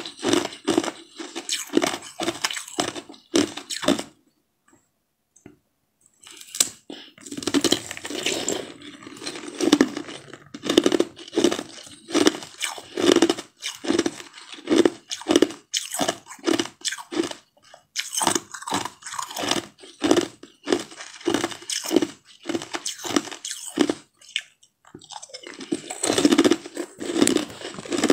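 Crunching and chewing of frozen yellow ice treats: a run of sharp bites and crunches, several a second, broken by a short quiet pause about four seconds in.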